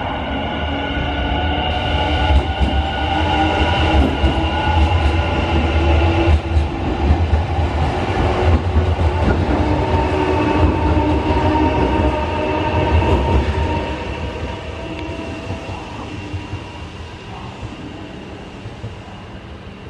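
Semboku 12000 series electric train running past: a heavy rumble of wheels on rail with the steady whine of its traction motors, and a few knocks as the wheels cross rail joints. The rumble dies away after about 14 seconds as the train recedes.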